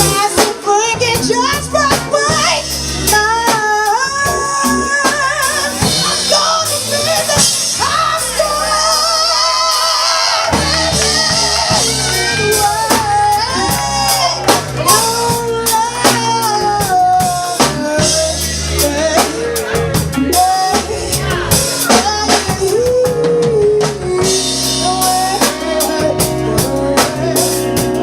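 Live band music with a drum kit and a singing voice.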